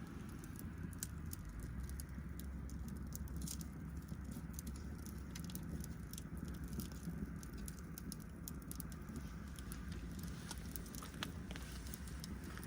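Wood bonfire crackling, with frequent sharp irregular pops over a low steady rumble.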